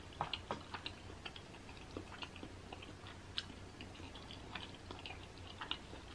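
Close-miked chewing of a mouthful of baked macaroni and cheese: scattered faint soft clicks of the mouth at work.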